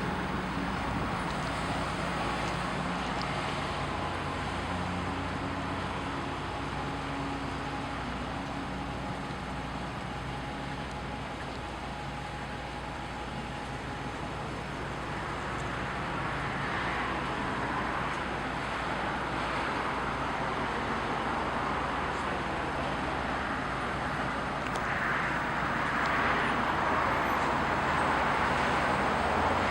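A car driving along a road: a steady low engine hum under tyre and road noise that swells a couple of times and is loudest near the end.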